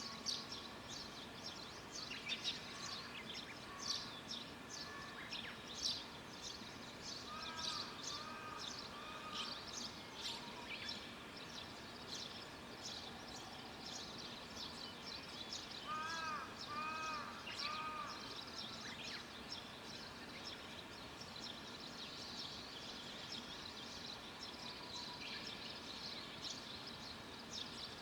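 Birdsong: several small birds chirping and twittering continuously. A lower bird adds runs of short, arching calls three times.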